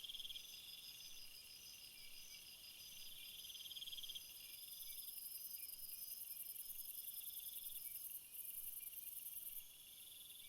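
Crickets and other insects chirping, several high trills overlapping, some breaking off and starting again while others run on.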